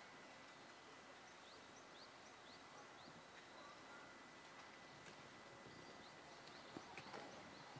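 Quiet outdoor ambience with a small bird chirping faintly, a run of short rising chirps repeated several times, and a couple of faint knocks near the end.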